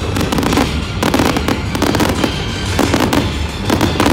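Fireworks display: a dense, rapid run of cracks and pops from bursting shells and crackling stars over a low rumble.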